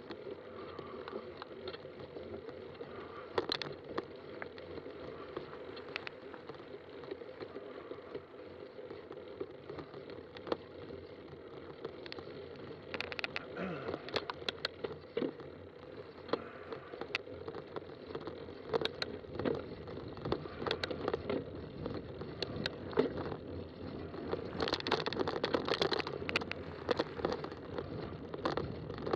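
Fat-tire bike being ridden on a trail: steady tyre and wind noise with frequent sharp clicks and rattles, growing louder and busier near the end.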